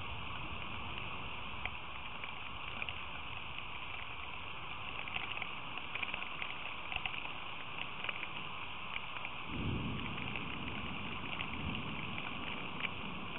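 Steady rain hiss with raindrops ticking close to the microphone. About ten seconds in, a low rumble swells briefly and fades.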